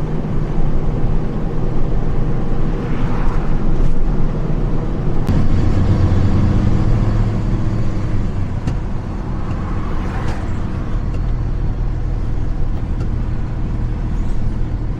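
Truck engine running with road noise while driving, heard from inside the cab; the engine note changes about five seconds in.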